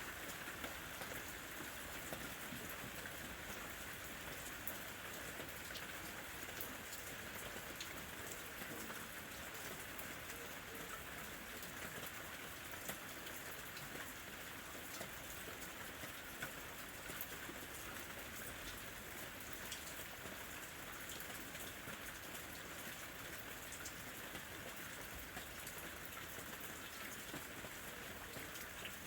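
Steady rain falling, with a dense scatter of individual drops ticking throughout.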